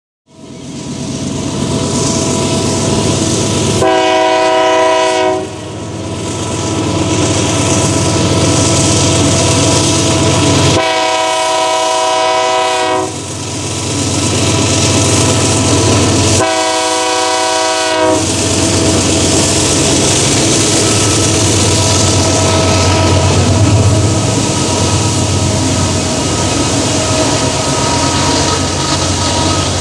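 Multi-tone air horn of a VLI GE AC44i diesel freight locomotive sounding three blasts, the middle one the longest, over the steady low throb of its diesel engine. After the third blast the freight wagons keep rolling past with a steady rumble of wheels on the rails.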